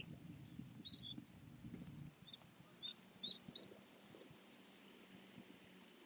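A songbird singing a short phrase of about eight quick high chirps that climb in pitch and come faster toward the end.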